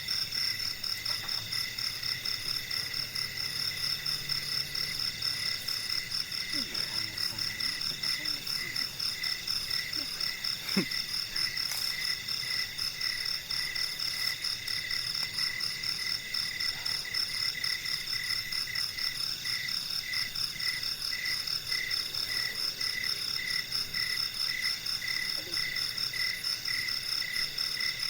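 Night-time forest chorus of insects and frogs: continuous high-pitched trilling, with a rapidly repeating call underneath that stands out more in the second half. A single short tap sounds about eleven seconds in.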